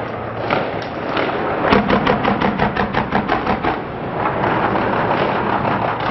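Automatic gunfire: a few separate shots, then a steady burst of about fourteen rapid rounds lasting about two seconds.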